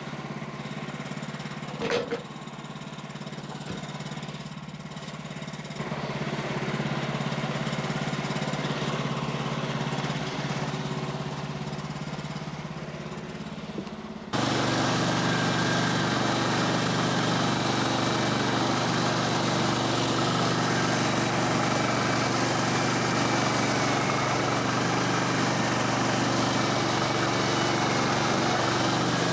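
Small gas engine of a Woodland Mills HM126 portable bandsaw sawmill running steadily, with a sharp click about two seconds in. About halfway through the sound abruptly turns louder and fuller and stays there.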